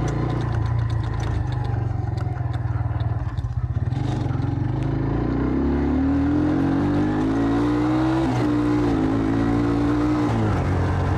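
Jawa 125 Dakar enduro motorcycle engine running under way. The revs climb steadily for a few seconds, dip briefly as if shifting, hold, then drop away near the end.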